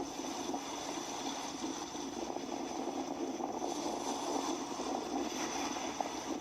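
Sea waves washing steadily, an even rushing noise with no single breaker standing out.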